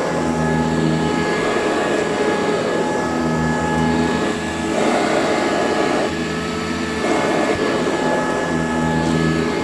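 Eureka C2094 commercial upright vacuum cleaner running steadily, its motor hum shifting in tone briefly about five seconds in and again near seven seconds.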